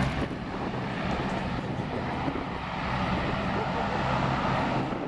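Lockheed C-130 Hercules' four turboprop engines running, a steady drone with a low hum beneath.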